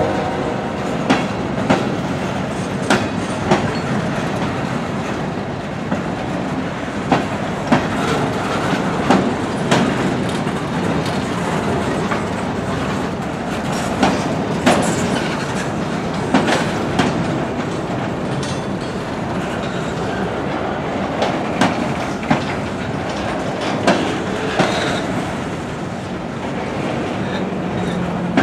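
A mixed freight train's cars (boxcars, tank cars and coil cars) rolling past with a steady rumble of steel wheels on rail, broken by sharp, irregular clacks as wheels cross rail joints.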